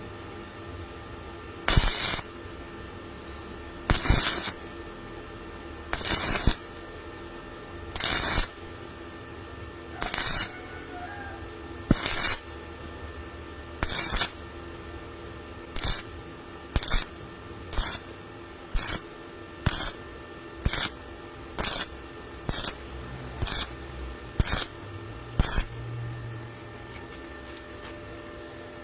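A welding arc struck in a string of short tack or stitch welds, each a brief crackling burst. They come about every two seconds at first, then quicker and shorter, about one a second, over a steady electrical hum.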